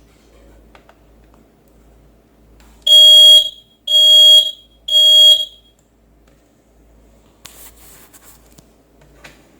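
Three loud electronic beeps from the Lavor Comfort XXS floor scrubber's control-panel buzzer, each about half a second long and a second apart, as the machine is powered up for testing. A faint brief rustle follows near the end.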